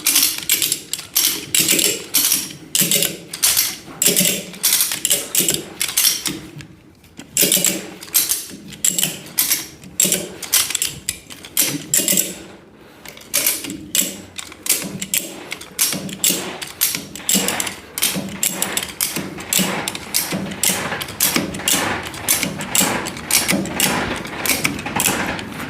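Ratchet strap being cranked tight under the load of a car it is pulling, its pawl clicking about two to three times a second, with two short pauses.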